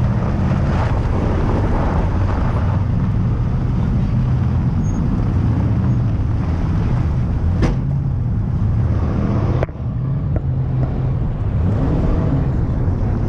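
Car engine and road noise heard from inside a car as it drives off, a steady low drone with the engine note rising and falling a little. There are two sharp clicks in the second half, the second followed by a brief drop in level.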